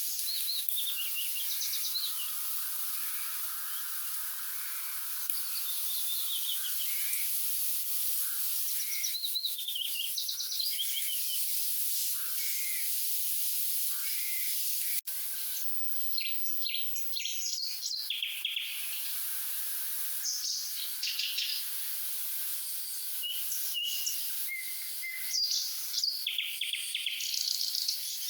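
Nightingales singing: varied short phrases of whistles, trills and sharp clicks, over a steady high hiss. The song breaks off for an instant about halfway through, then carries on denser and more clicking.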